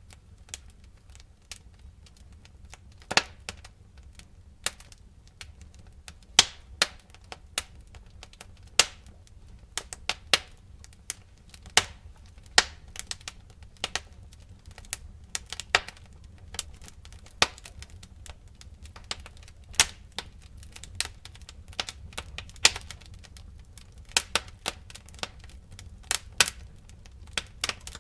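Wood fire crackling: irregular sharp snaps and pops, some much louder than others, over a steady low rumble of the flames.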